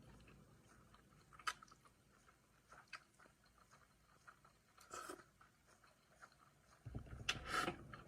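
Faint close-miked chewing and mouth sounds of a person eating, with a few soft crunches and clicks; a brief louder crunch about five seconds in, and louder eating noise near the end.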